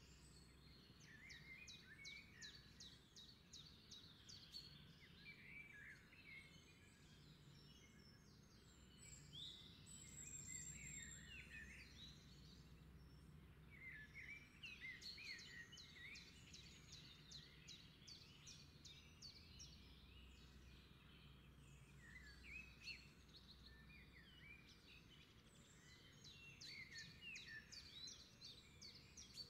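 Faint birdsong from several birds: quick chirps, rapid trills and short warbled notes coming in bouts every few seconds, over a low steady rumble.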